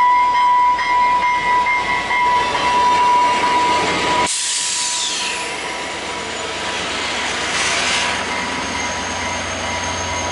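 VIA Rail passenger train running past, with a steady high tone sounding over the train noise. The sound changes abruptly about four seconds in, followed by a high hiss that falls in pitch.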